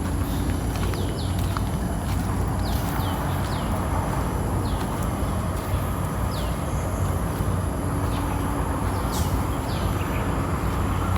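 Birds calling with short chirps that each drop quickly in pitch, repeated irregularly every second or so, over a steady low rumble.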